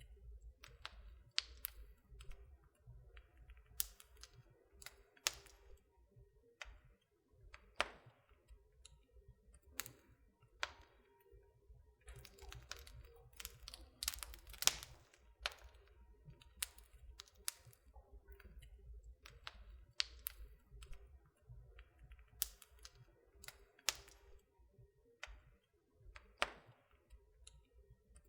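Wood fire burning in a fireplace, crackling with irregular sharp snaps and pops, some louder than others, over a faint low rumble.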